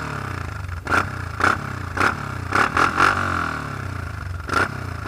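ATV engine running steadily, overlaid by short sharp clattering knocks that come irregularly, about every half second to a second, and are louder than the engine.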